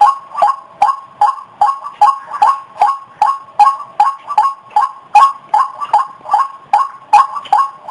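White-breasted waterhen calling, a loud, monotonous series of short, harsh notes repeated evenly about two and a half times a second.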